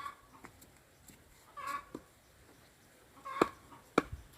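Wooden stakes being knocked into place beside a bonfire woodpile, with a few sharp knocks, the loudest near the end. Short calls from a farm animal come in between them.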